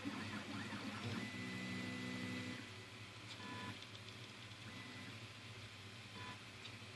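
Anet A8 3D printer running a print: its stepper motors whine in shifting tones as the axes move, over a steady fan hum. The motor sound is louder for the first two and a half seconds, then quieter.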